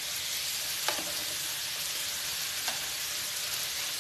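Steaks and salmon fillets sizzling steadily on a hot stovetop griddle while the steaks are flipped with metal tongs. Two sharp clicks of the tongs, about a second in and again near three seconds.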